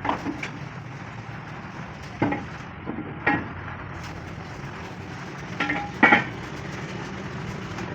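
Irregular metal clanks with a short ring, as steel plate is knocked or handled, about six strikes with the loudest pair about six seconds in, over a steady low machine hum.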